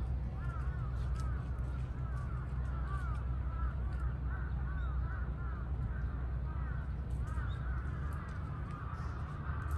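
Birds calling: many short, arched calls overlapping continuously, over a steady low rumble.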